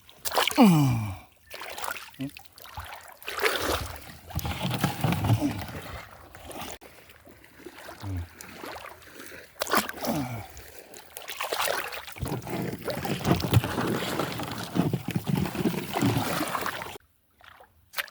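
Water splashing and sloshing, with a short falling vocal cry near the start and another about ten seconds in.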